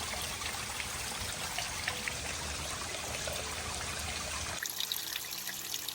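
Running water of a jungle stream trickling and splashing steadily. Near the end the sound changes abruptly: the low rumble drops away and faint steady tones come in.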